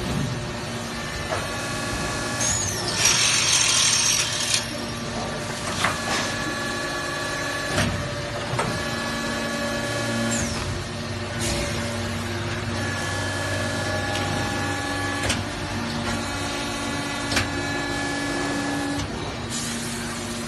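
Automatic ladder-profile bending and drilling machine at work: a whining drive that runs in repeated spells of a couple of seconds, a burst of pneumatic air hiss about three seconds in, and sharp metallic clacks between the cycles.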